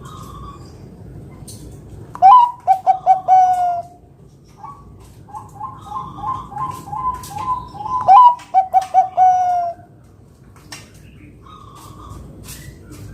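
Zebra dove (perkutut, Bangkok type) singing: two bouts of quick stuttering coos, each closing on a longer, lower 'kung' note. Softer coo notes run between the bouts.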